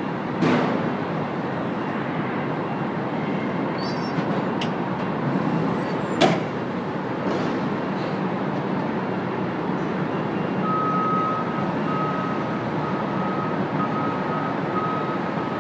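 Boom lift running as it raises the platform: a steady mechanical drone with a couple of sharp knocks. About two-thirds of the way through, a high-pitched alarm starts beeping over and over.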